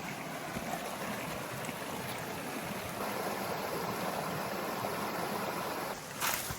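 Rainforest creek water running, a steady rushing that grows a little louder about halfway through. A short sharp scuff near the end.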